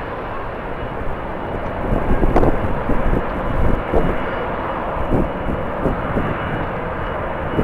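Steady jet airliner engine noise at the airport. From about two seconds in, strong gusting wind buffets the microphone with irregular low thumps.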